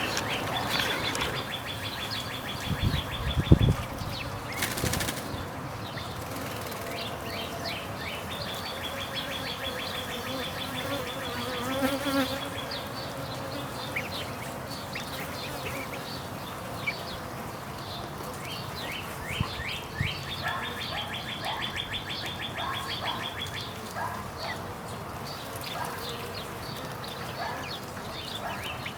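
Italian honey bees buzzing at a hive entrance, one buzzing close by in the middle. A songbird's rapid trill repeats three times in the background.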